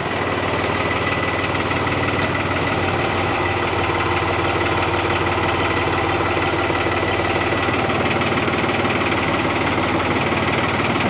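Loader tractor's engine running steadily at an even speed, with a thin steady whine above the engine hum.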